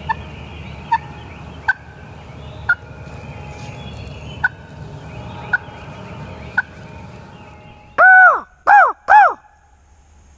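Turkey clucks: single short, sharp notes about a second apart. Near the end come three loud, quick yelps.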